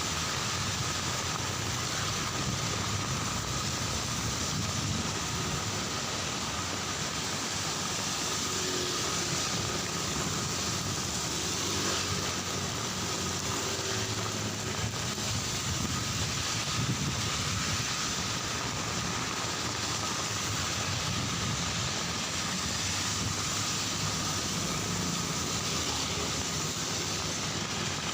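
Steady rain falling, mixed with the continuous run of road traffic passing on the street, with a faint steady high tone running under it.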